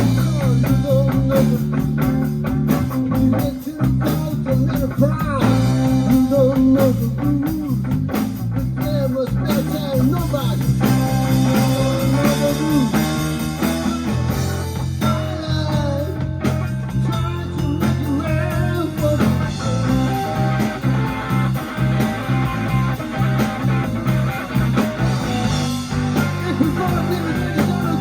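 Live blues band playing an instrumental break: a guitar solos with many bent notes over a steady bass line.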